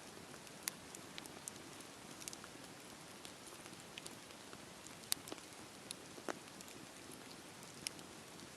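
Wood fire burning with a soft steady hiss and irregular sharp crackles and pops, a strong pop about five seconds in and another about a second later.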